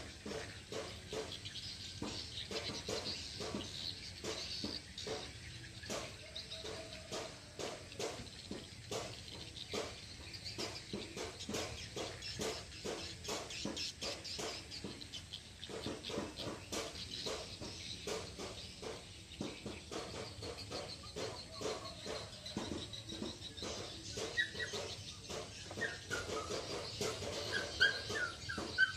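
Outdoor ambience with birds chirping and a dense run of small irregular clicks and taps, and a few short high chirps near the end.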